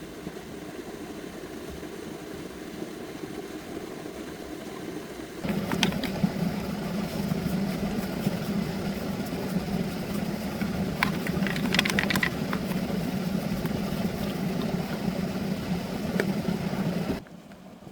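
An engine running steadily. It gets louder about five seconds in, with a few sharp metallic clicks around the middle, then drops suddenly to a quieter hum near the end.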